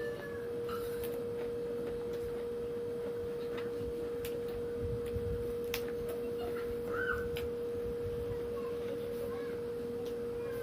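A steady single-pitched hum, with a few faint clicks and a short squeak about seven seconds in.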